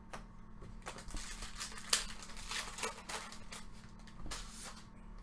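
Rustling and crinkling of baseball trading cards and a foil pack wrapper being handled, in a cluster of short bursts about a second in, and again near the end.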